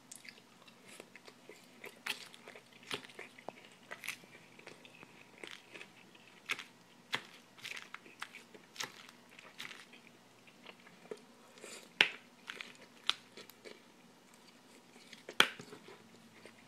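Close-up chewing and crunching of a chicken and lettuce salad, with a plastic fork clicking and scraping in a plastic bowl. Short irregular clicks throughout, with two louder sharp ones, one about three-quarters through and one near the end.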